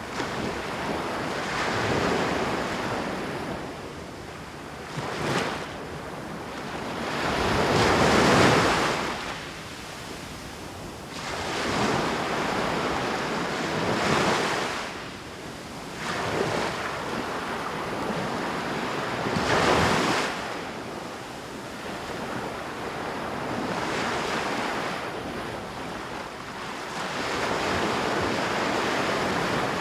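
Ocean waves breaking on a beach one after another, each surge swelling and falling away over a few seconds. The loudest breaks come about eight seconds in and again near twenty seconds.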